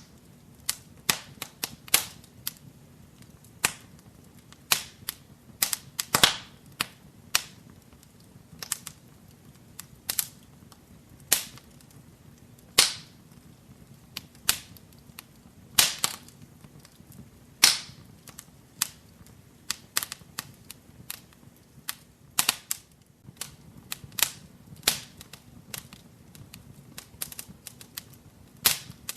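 Wood fire burning in a fireplace, crackling with irregular sharp pops and snaps, several a second at times, some louder than others, over a faint low hiss.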